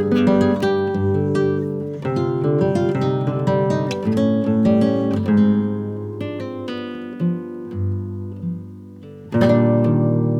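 Background music: acoustic guitar strummed and picked in chords.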